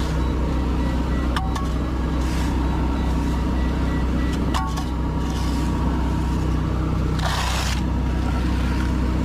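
An engine running steadily, with a shovel scraping across asphalt once near the end and a couple of short clicks.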